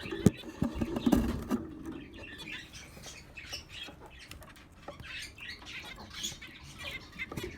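Budgerigars in an aviary making soft scattered chirps, with scratching and rustling as they move about. A few sharp clicks and knocks come in the first second and a half.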